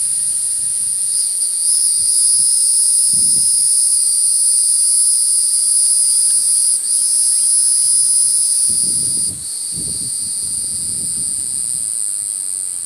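A chorus of insects droning, one steady high-pitched note that eases a little about nine seconds in, with low rustling and handling bumps under it.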